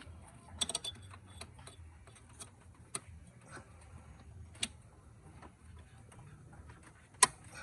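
Scattered sharp clicks and taps, like hand tools and metal parts being handled during engine work: a short cluster about a second in, a few single clicks after it, and one louder click near the end.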